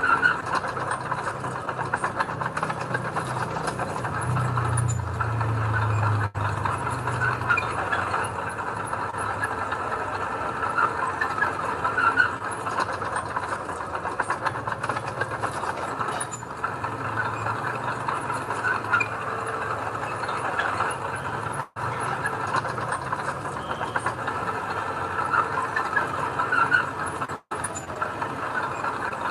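Diesel engine of heavy earthmoving machinery running steadily with metallic rattling, the engine note swelling for a few seconds about four seconds in.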